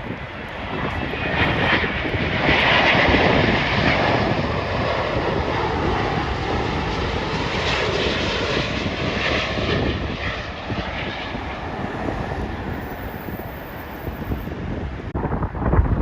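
Arriving jet airliner passing on its landing approach. The engine noise swells over the first few seconds, holds, then fades away, with a thin steady whine in it. Wind buffets the microphone near the end.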